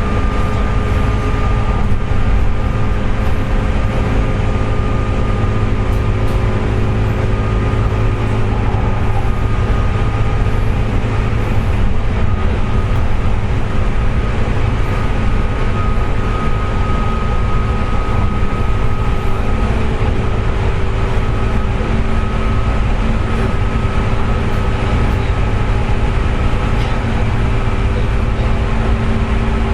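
JR West 201 series electric train motor car running at speed: steady rail and running-gear rumble with steady whining tones, the 'jet sound' that the car's bearings make through electrical erosion.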